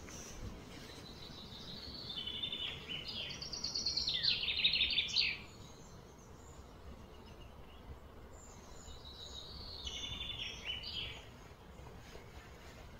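A bird singing two bouts of quick, high-pitched trills and repeated notes, the first and louder about two seconds in, the second shorter one near the end, over a steady outdoor background hiss.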